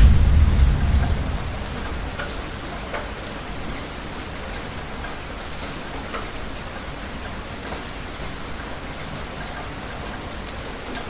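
Heavy rain falling steadily, with scattered sharp drop hits. A low thunder rumble fades away over the first couple of seconds.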